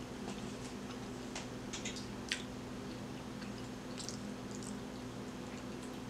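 Faint mouth clicks of someone chewing food, over a steady low hum. A little after halfway, a few soft crackles as a plastic water bottle is handled.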